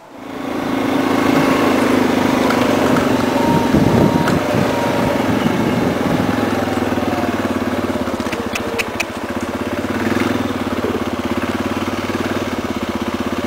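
A small motor engine comes up within the first second and then runs steadily with a rapid, even beat.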